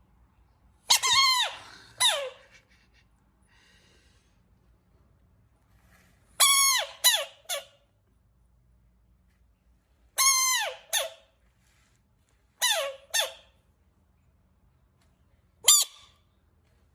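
A frog giving short calls, each falling in pitch, in small groups: two about a second in, three around six to seven seconds, two around ten seconds, two around thirteen seconds, and a single call near the end.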